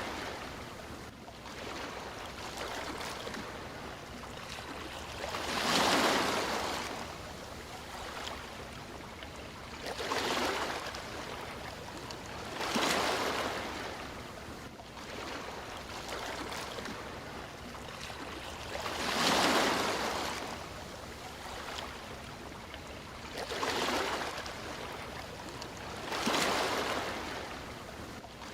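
Sea waves breaking on a shore: a steady wash with six slow swells that each rise and fade, a few seconds apart.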